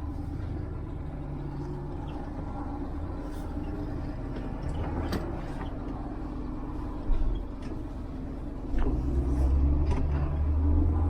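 Heavy diesel truck engine running steadily with a low rumble, a single knock about 7 s in, then the engine getting louder near the end.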